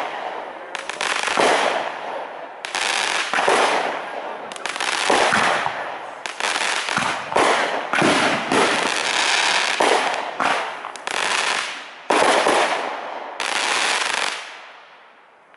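Aerial firework shells bursting in quick succession, more than a dozen loud booms, each trailing off over about a second, the last one fading away near the end.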